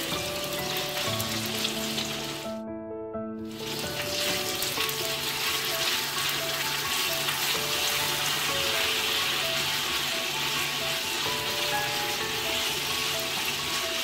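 Soft tofu frying in hot oil in a pan: a steady sizzle that drops out for about a second around three seconds in, then comes back stronger.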